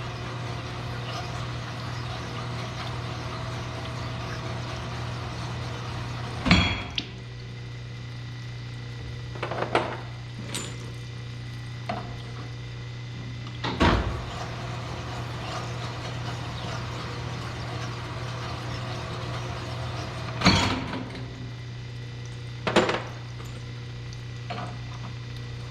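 Rod hone running with a steady low hum while a bore is honed with an abrasive stone to take out its high spots, with a few sharp metal clanks spaced through.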